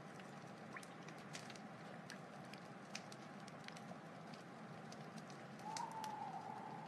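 Wood fire burning in a fireplace: a steady hiss under many scattered sharp crackles and pops, with a louder whistling hiss near the end.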